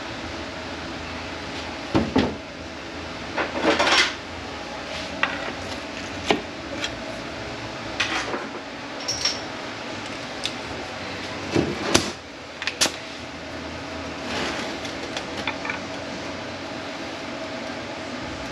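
Metal parts of a Mercedes 722.9 automatic transmission clinking and clanking as they are handled and set down during teardown, about a dozen separate knocks spread unevenly, over a steady shop hum.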